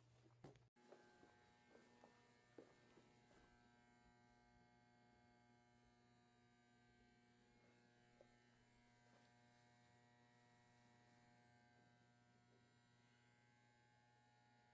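Near silence: a faint steady electrical hum with several faint steady tones, and a few small clicks in the first three seconds.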